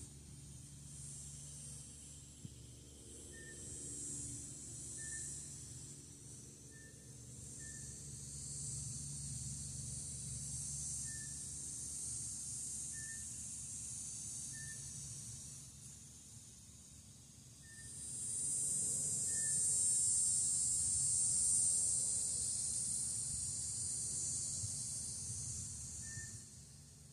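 Insects calling in a high, dense chorus that swells loudly about eighteen seconds in and fades near the end, with faint short chirps every second or two.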